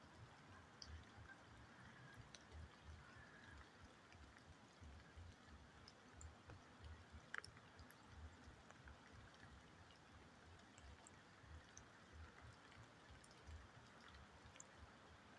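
Near silence: a faint hiss and fluttering low rumble, with a few tiny ticks, one a little louder about seven seconds in.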